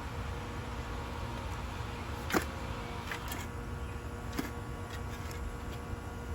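Potatoes being dug out of garden soil by hand: a few brief knocks and scrapes, the loudest about two and a half seconds in, over a low steady rumble.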